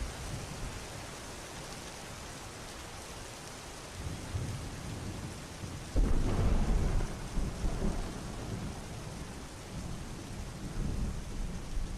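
Steady heavy rain, with a sudden loud clap of thunder about halfway through that rumbles off over the next few seconds.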